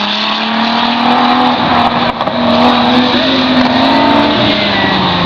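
A car's engine running hard on an autocross course, its pitch rising slightly and then easing off near the end, over a steady hiss.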